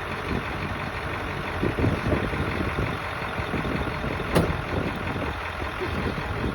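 7.3 Powerstroke diesel with a KC300X turbocharger, running, with a few short louder bursts about two seconds in and a sharp click a little past four seconds.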